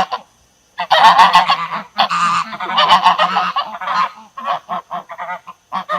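Large birds calling loudly in harsh, wavering cries, several overlapping. The calls are dense for the first few seconds, then break into shorter calls near the end.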